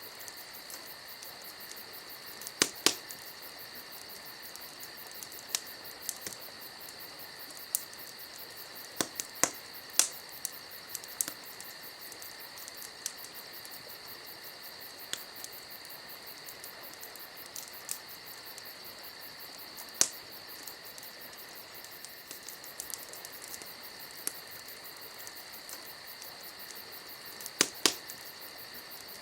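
Campfire crackling with scattered sharp pops of burning wood, a pair of louder ones about three seconds in and another near the end, over a steady high chirring of crickets.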